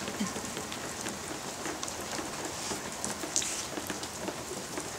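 Steady rain falling: an even hiss with many scattered ticks of drops striking.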